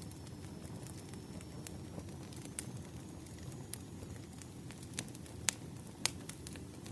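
Wood fire crackling: scattered sharp pops and snaps over a steady low rumble, with two louder snaps near the end.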